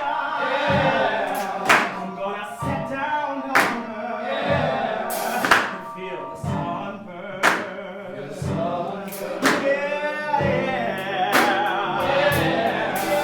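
Ensemble singing a gospel-style number in a large room, with voices holding and bending sung notes. Sharp percussive strikes land on the beat every one to two seconds.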